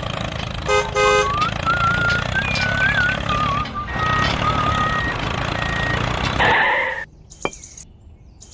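Engine running steadily, with a short horn toot about a second in and a wavering whistle-like melody over it; the engine sound cuts off about seven seconds in.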